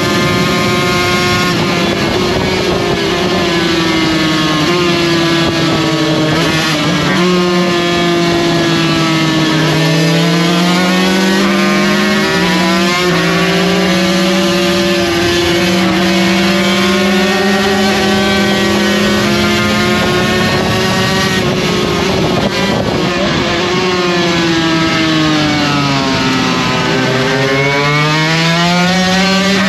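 Race motorcycle engine heard onboard at full racing pace, its pitch climbing hard through each gear, dropping at each upshift and falling away when braking for corners, over constant wind rush.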